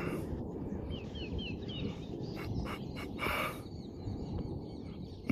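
Steady low outdoor rumble with a small bird chirping three or four times in quick succession about a second in, and a brief rustle about three seconds in.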